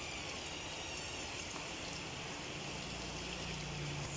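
Diced potatoes and carrots frying in hot oil in a wok over a turned-up flame: a steady sizzle.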